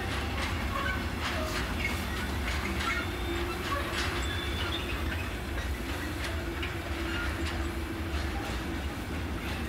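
Intermodal freight wagons rolling steadily past on the track: a continuous low rumble with irregular sharp wheel clicks and short high-pitched squeaks from the wheels.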